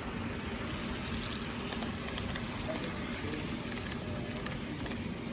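HO scale model train running on the layout track: a steady rumbling noise from the motor and wheels on the rails, with a faint steady hum and a few light clicks.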